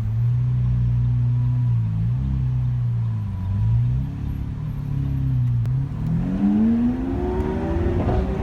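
Lamborghini Aventador's V12 engine running at steady low revs, its note dipping briefly twice. Over the last couple of seconds it revs up under acceleration, the pitch rising.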